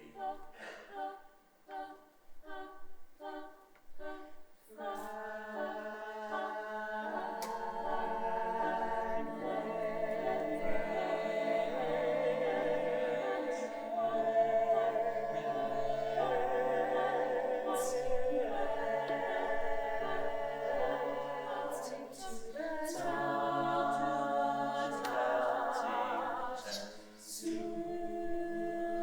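Choir singing a cappella. It opens with short, detached notes in an even pulse, then moves to held chords that change every couple of seconds, with a brief break near the end.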